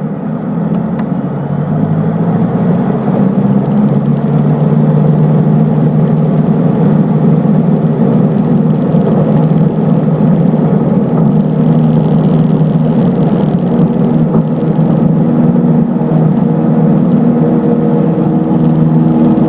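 Cessna 152's four-cylinder Lycoming engine running, growing louder over the first few seconds and then holding a steady drone.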